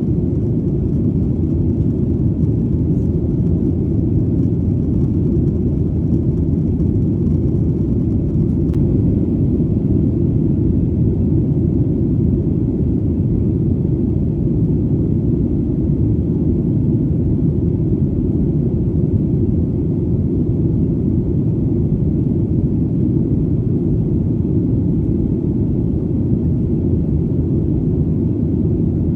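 Airplane in flight: a steady, deep engine rumble that holds an even level without changing pitch.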